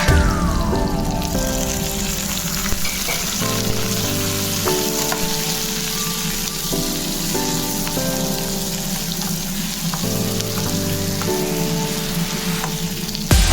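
Food sizzling steadily as it fries in hot oil in a pan, with soft background music underneath.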